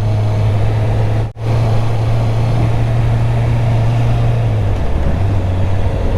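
Honda CB650R's stock inline-four engine running at steady revs under way, dropping slightly in pitch about four and a half seconds in. A brief cut in the sound about a second in.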